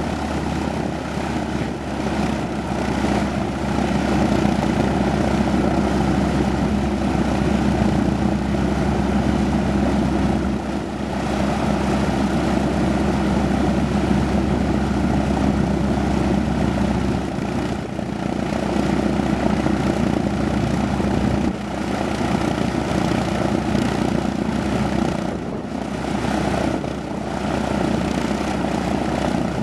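Piston-engined propeller aircraft running, a loud, steady drone of engine and propellers that shifts slightly in pitch a few times.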